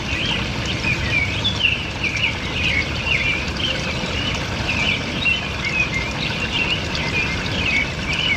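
Many birds chirping and calling continuously over a steady rushing noise.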